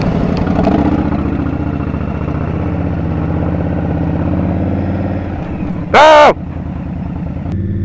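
Indian Scout motorcycle's V-twin engine running in city traffic, its note easing off gradually, then holding steady near the end. About six seconds in, one short, very loud tonal blast that rises then falls in pitch cuts across it.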